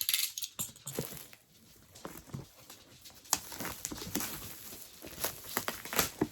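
Packaging being handled and pried open: rustling and crinkling with a scatter of sharp clicks and taps. A hissy crinkle comes right at the start, and sharper snaps come midway and near the end.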